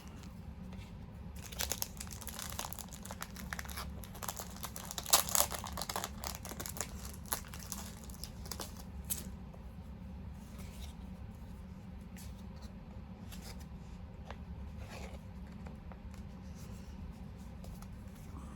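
Crinkling and rustling of packaging being handled, dense and irregular for the first half, loudest a few seconds in, then thinning to scattered light rustles and ticks.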